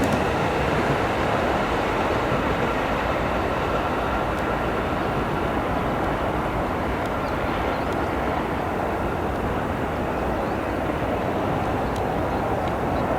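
Electric commuter train running on the line: a steady rumble and hiss that holds level, thinning a little in its upper part about two-thirds of the way through.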